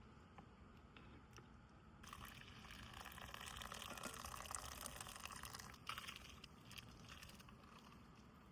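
Faint water running or being poured for about four seconds, starting about two seconds in, with a few light clicks.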